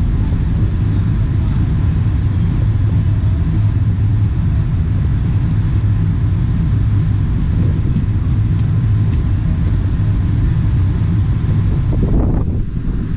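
Steady low rumble of a train running at speed, with no horn or other distinct event.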